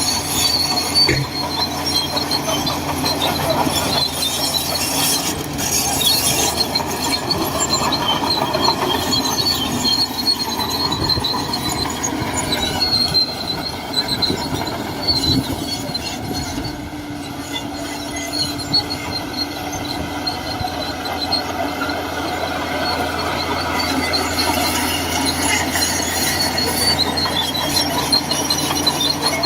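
Shantui DH17C2 crawler bulldozer working: its diesel engine runs steadily while the steel tracks squeal.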